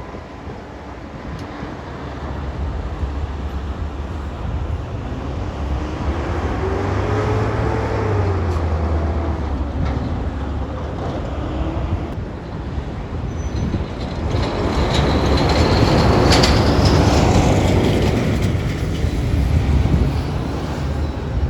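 A heavy vehicle's engine running and moving past, its pitch rising and falling, then swelling loudest about two-thirds of the way through, with a high whine that rises near the peak.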